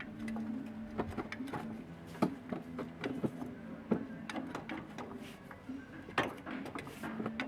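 Irregular clicks and knocks, several sharp ones, over a steady low hum.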